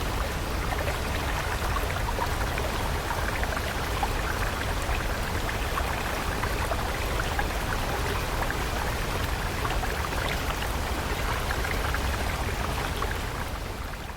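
Flowing stream water, a steady rushing and splashing that fades out near the end.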